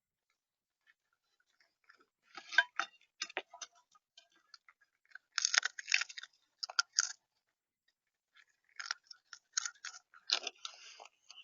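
A bird at the feeder pecking and cracking seed close to the camera's microphone: quick clusters of sharp clicks and crunches, three bouts with short pauses between.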